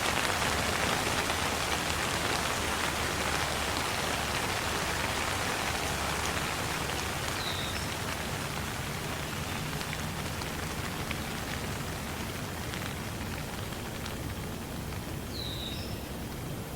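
Steady rain falling on a surface, an even hiss with scattered drop ticks that eases slightly over the stretch. Two brief high chirps sound over it, about eight seconds apart.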